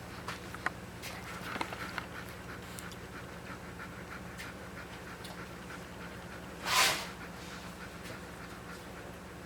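Newborn Shepherd puppies and their mother dog: small squeaks and snuffles with dog panting, and one short breathy burst about seven seconds in, over a steady low hum.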